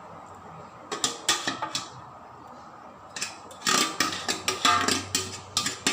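Spoon knocking and scraping against a cooking pot: a few quick clinks about a second in, then a longer run of rapid knocks from about three seconds in.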